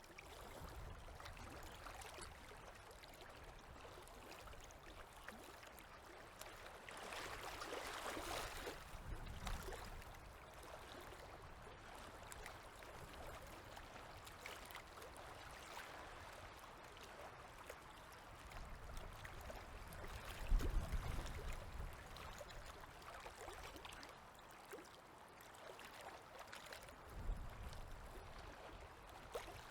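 Small waves lapping on a river, a soft, faint wash of water that swells for a couple of seconds about eight seconds in. A brief low rumble about two-thirds of the way through is the loudest moment, with a smaller one near the end.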